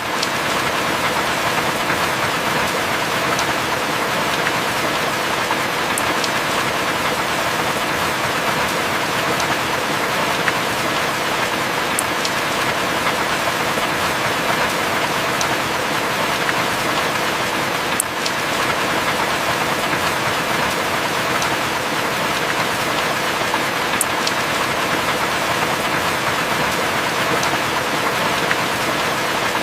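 Steady heavy rain falling on and around a wooden cabin, an even hiss with a few faint sharp drip ticks.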